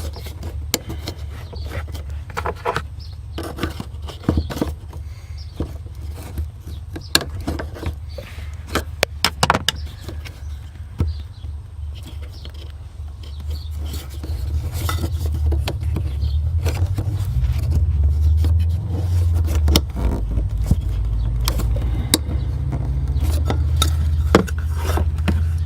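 Flathead screwdriver clicking and scraping on the locking clip of a BMW E46 fuel pump's wiring harness connector as it is pried loose. Under it runs a low steady rumble that gets louder about halfway through.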